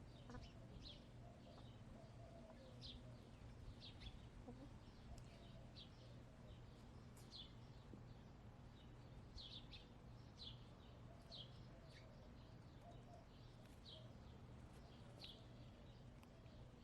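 Small wild birds chirping faintly in the background, short high chirps repeated at irregular intervals.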